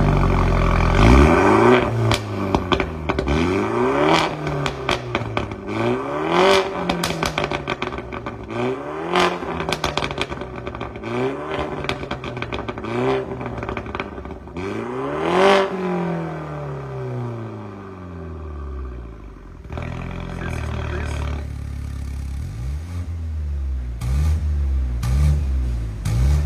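BMW G20 3 Series engine revved repeatedly through an aftermarket valved (Varex) performance exhaust, rising and falling about seven times, with crackles around each blip. About 20 s in it settles to a steady idle, then a few short, lighter blips follow.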